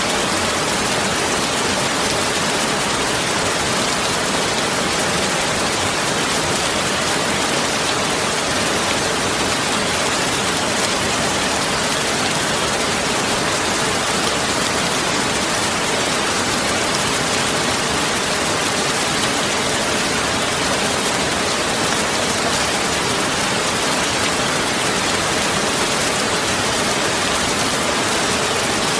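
Steady heavy rain, an even hiss with no breaks or thunderclaps.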